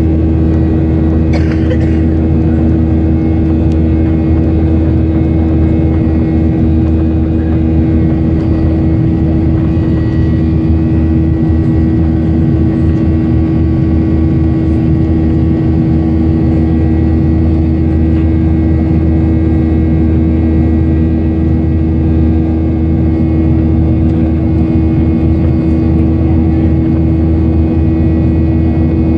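Cabin noise of a Ryanair Boeing 737-800 in flight: the steady drone of its CFM56 turbofan engines and rushing air, with a constant low hum and a few steady tones.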